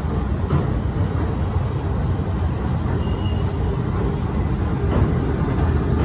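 Passenger train running across a riveted steel girder bridge, heard from an open coach doorway: a steady low rumble of wheels on rails and the bridge's steelwork.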